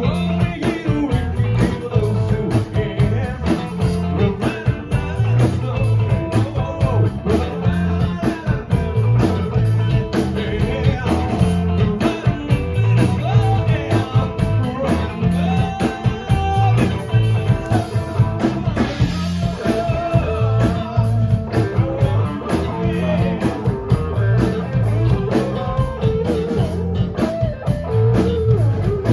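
Live rock band playing a song: drum kit, bass and electric guitar, with a singer.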